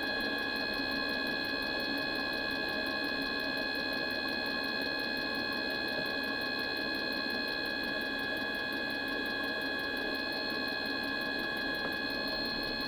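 Mikuni diesel heater's blower motor running with a steady whine of several high tones, over an even, fast ticking.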